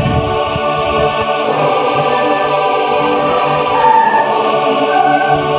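Choral music: a choir singing long held chords in a heavenly, angelic style.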